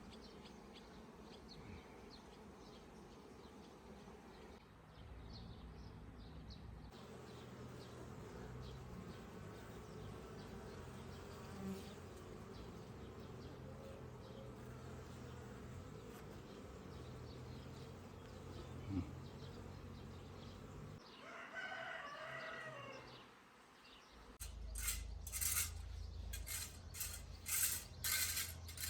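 Faint, steady insect buzzing outdoors, with a rooster crowing once about 22 seconds in. Near the end a run of sharp, regular scraping strokes begins, about one or two a second.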